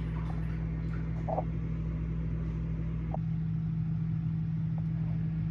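A steady low mechanical hum: one even low tone over a rumble, with a few faint clicks.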